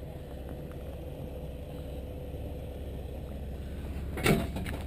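Jeep Wrangler's engine running low and steady as it crawls slowly up a rocky dirt ledge, with one brief sharp noise about four seconds in.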